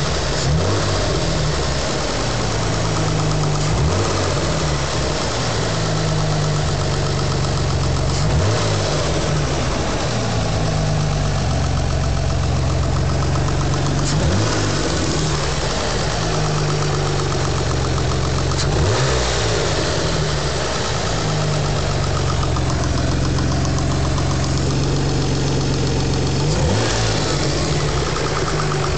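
SHO engine idling with a fast, light ticking that the owner is asking about as a possible engine tick. The engine speed briefly shifts about five times.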